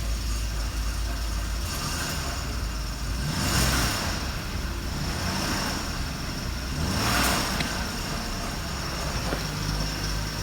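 BMW M54B22 2.2-litre straight-six petrol engine running at idle shortly after starting, its revs rising briefly twice, about three and a half and seven seconds in, before settling back to idle.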